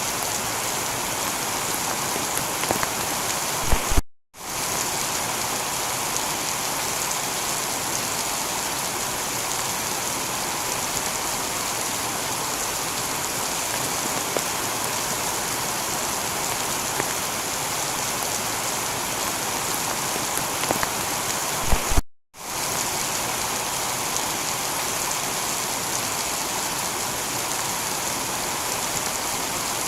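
Steady heavy rain on a tiled roof. The sound cuts out to silence briefly twice, about 4 seconds in and again about 22 seconds in.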